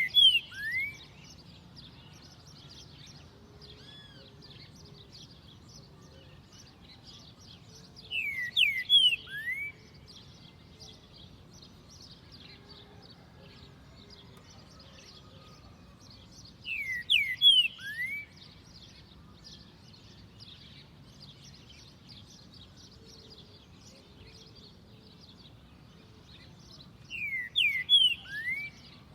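Green-winged saltator (trinca-ferro) singing a loud whistled phrase of sweeping notes, repeated four times about every nine seconds. A faint steady chatter of high chirps runs underneath.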